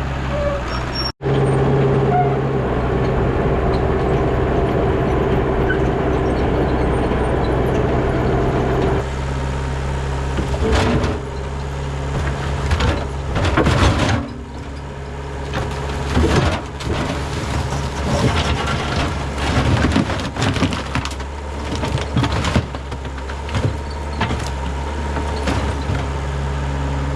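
An engine running steadily, with irregular knocks and clatter over it from about nine seconds in.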